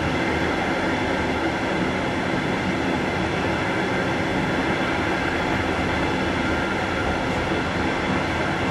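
Passenger train running along the track, heard from inside the train: a steady, even rumble of wheels and running gear with a faint steady hum on top.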